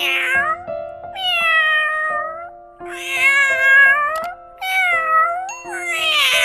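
Domestic cat meowing five times in a row, long drawn-out meows that fall in pitch at the end, over light background music.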